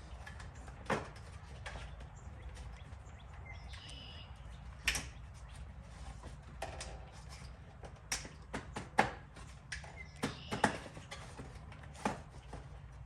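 Irregular clicks and knocks of hard plastic being handled, as parts are unclipped and pulled off a car bumper cover, the sharpest knocks coming in the second half.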